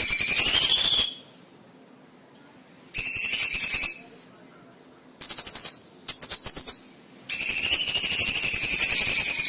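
Cucak cungkok singing: a loud, harsh, rapid rattling trill, high-pitched, in short bursts. After the first phrase cuts off about a second in, there is a burst at about 3 s and two short bursts around 5 to 7 s, then a long unbroken trill from about 7 s.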